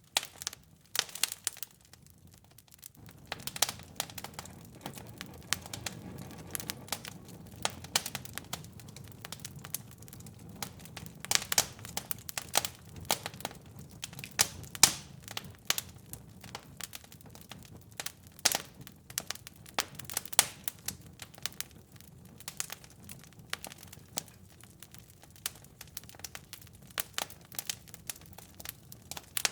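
Wood fire crackling, with many irregular sharp pops and snaps. A low, steady rumble of flames comes in about three seconds in.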